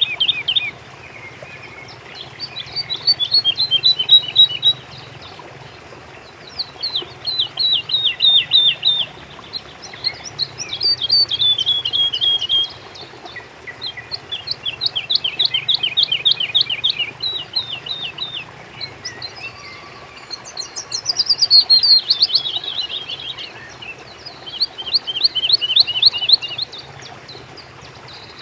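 Songbird singing a run of fast trilled phrases, each a rapid series of short downward-sweeping notes lasting a second or two, repeated with brief pauses. The bird sings over a faint steady background hiss.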